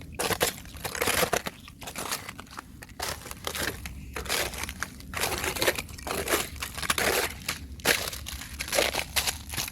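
Thin fresh ice crunching and cracking as it is broken, in an irregular run of crisp crunches, roughly one or two a second.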